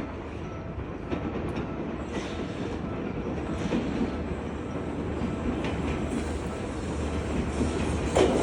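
Seibu 2000 series electric train approaching, a steady rumble of wheels on rail that slowly grows louder, with a few scattered clicks from wheels crossing rail joints.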